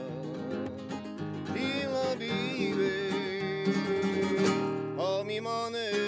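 Nylon-string Spanish guitar strummed and plucked, with a man's voice singing long held, wavering notes over it.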